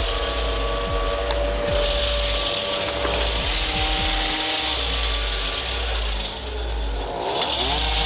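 A screw-type brake caliper compressor being turned to push the caliper piston back into its bore, giving a steady mechanical tool noise with irregular stretches of low rumble.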